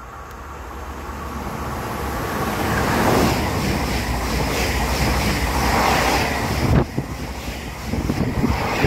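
Double-deck electric passenger train passing close by at speed: a rushing noise of wheels and air that builds as it approaches, then holds loud as the coaches go by, with a run of quick wheel knocks near the end.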